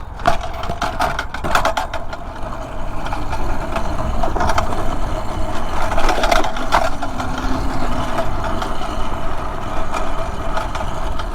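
Mini bike's small single-cylinder engine idling steadily, with scattered knocks and rattles as the bike is handled.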